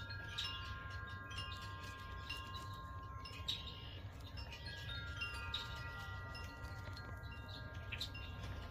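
Wind chime ringing, several long notes overlapping and slowly fading, with a new set struck about halfway through. Short bird chirps come and go over it.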